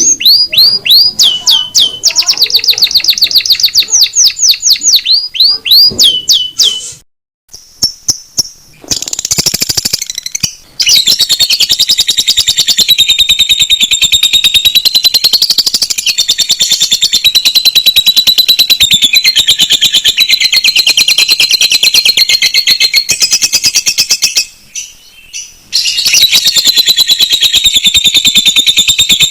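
Recorded canary and lovebird song: quick, repeated downward-sweeping whistles for the first few seconds, then after a short break a long, very fast chattering trill that runs on for many seconds, pausing briefly once near the end.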